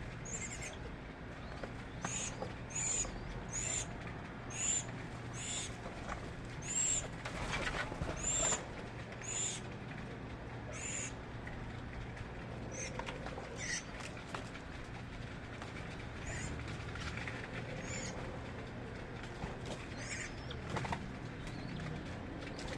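A bird repeating a short, very high, arched call about once a second, then more faintly and less often in the second half, over a steady low hum.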